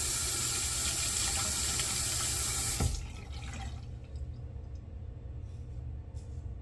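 Bathroom sink tap running, water rushing into the basin, then shut off about three seconds in; a low steady hum remains.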